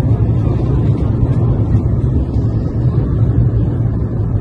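Loud, steady roar of an Embraer 190 airliner's engines and rushing air, heard from inside the passenger cabin in flight.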